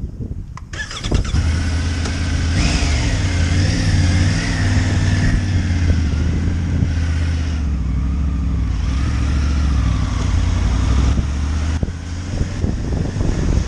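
Motorcycle engine starting less than a second in, then running steadily at idle.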